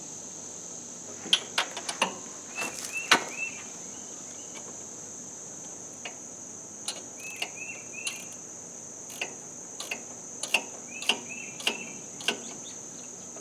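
Irregular sharp metal clinks and knocks as a pry bar works against the tractor's alternator and its bracket to tension a new fan belt. Under them runs a steady high-pitched chorus of crickets.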